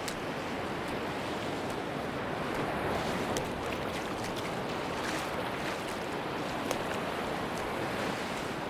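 Sea waves washing steadily onto a beach, an even wash of surf with a few faint high ticks scattered through it.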